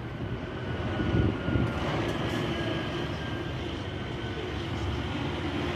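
Scania truck's diesel engine and exhaust running, a steady low rumble.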